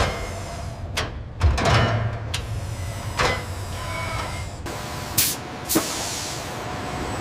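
A series of sharp metallic clanks and knocks, about six spread irregularly, some leaving a brief ring, over a steady industrial hum.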